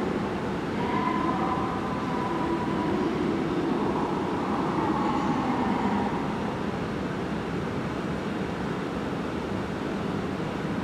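E5 series Shinkansen pulling slowly out of the platform, a steady rolling rumble with a wavering hum over it, easing slightly about six seconds in as the train moves away.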